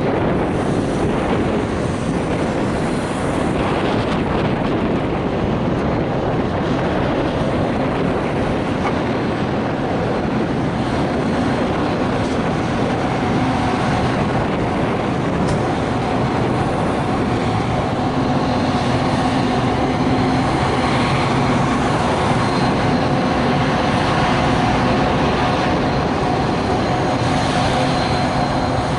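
Train running close by: a steady engine drone with a few held tones over rail noise, the tones growing a little stronger in the second half.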